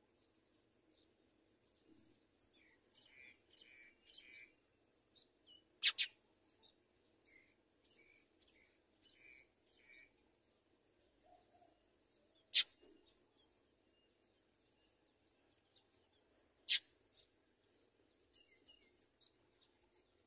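House sparrows chirping in short runs of quick repeated notes, with three sharp, loud, very brief sounds spaced a few seconds apart standing out above them. A faint steady low hum lies underneath.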